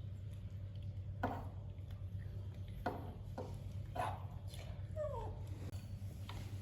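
Pet monkey making short, sharp squeaky calls, about five spread over a few seconds, then one falling squeal near the end, over a steady low hum.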